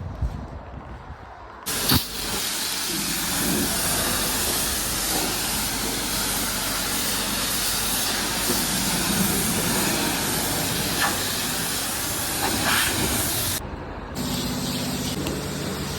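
High-pressure water spraying from a car-wash wand: a loud, steady hiss that starts abruptly about two seconds in and cuts off sharply near the end, giving way to a steady low hum.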